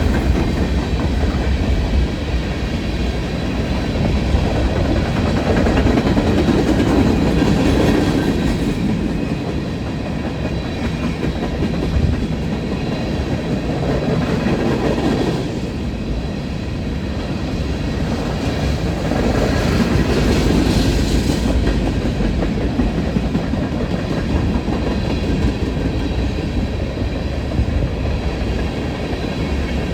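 Empty coal train cars rolling past on steel rails: a continuous rumble and clatter of wheels on the track that swells and eases slowly, with no locomotive engine prominent.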